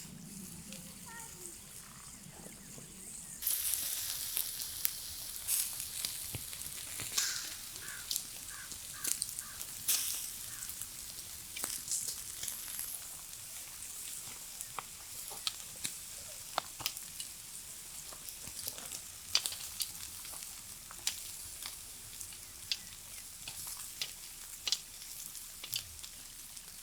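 Food sizzling over a campfire, starting suddenly about three and a half seconds in, with a steady hiss and many small crackles and pops that thin out gradually.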